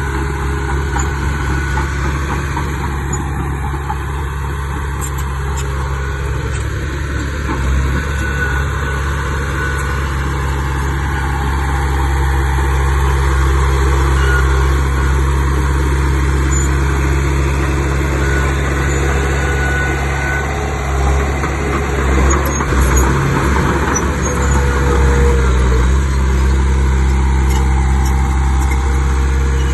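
Heavy diesel earthmoving machinery running steadily under work, with a few louder, rougher surges past the middle.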